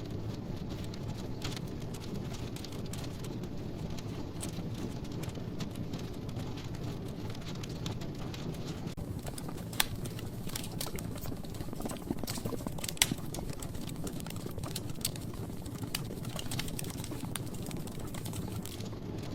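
Wood logs burning in a fireplace: a steady low rush of flame with scattered crackles and a few sharper pops, the loudest about ten and thirteen seconds in.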